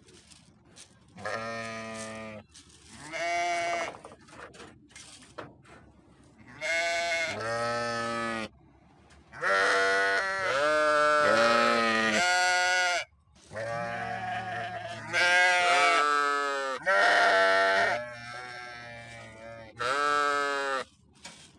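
Sheep bleating repeatedly, with about a dozen calls of roughly a second each, several of them overlapping in the middle of the stretch.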